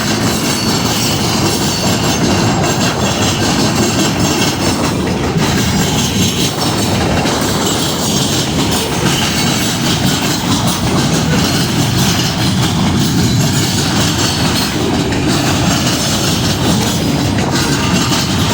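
A train rolling past, its cars making a steady, loud rumble on the rails.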